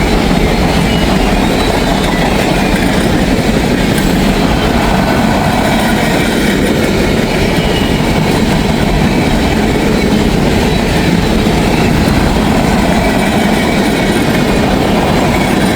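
A freight train's cars rolling past, a steady loud noise of steel wheels running on the rails.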